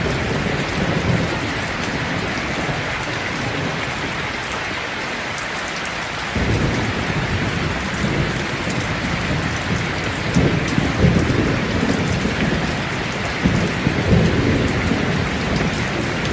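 Steady rain falling with rolling thunder underneath. The rumble thins out a few seconds in, comes back suddenly about six seconds in, and swells twice more near the end.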